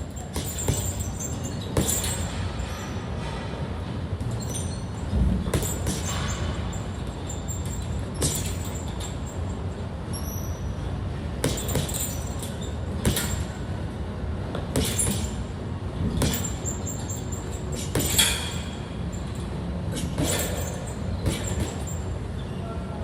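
Sharp thuds at irregular intervals, roughly one every second or two, over a steady low hum: punches landing in a boxing workout.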